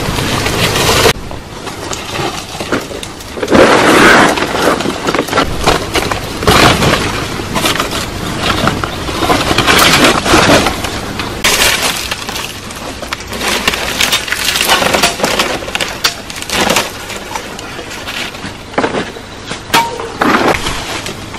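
Branches being snapped and broken: irregular sharp cracks and snaps mixed with rustling of leaves and wood.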